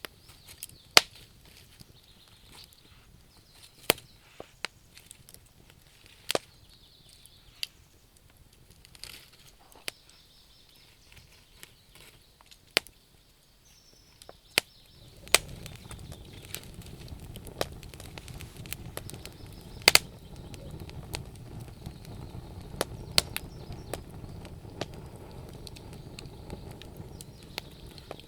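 Bonfire of burning wood crackling, with sharp irregular pops and snaps. About halfway through, a steady low rumble of the flames comes in under the pops.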